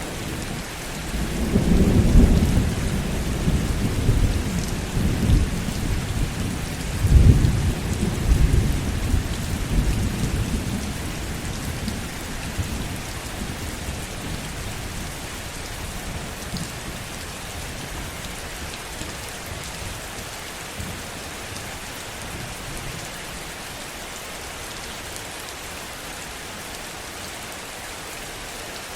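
Heavy rain falling steadily under a roll of thunder. The thunder rumbles deep and loudest about two seconds in and again about seven seconds in, then fades away within the first dozen seconds, leaving the rain alone.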